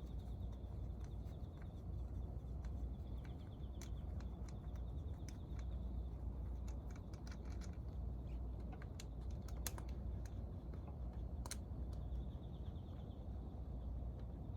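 Hand tools and metal engine parts clicking and tapping during motorcycle engine disassembly: scattered light clicks, busiest in the middle, over a steady low rumble.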